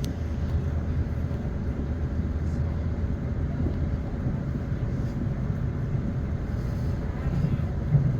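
Class 450 electric multiple unit running, heard from inside the carriage: a steady low rumble of wheels on track with a faint steady hum. There is a brief louder knock near the end.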